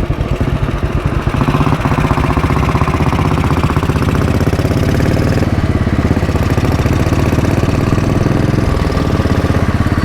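Royal Enfield Bullet 500's single-cylinder four-stroke engine running at low revs, with an even, pulsing beat.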